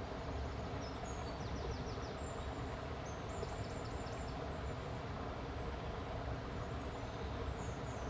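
Small birds chirping in short quick series of high notes over a steady rushing background noise.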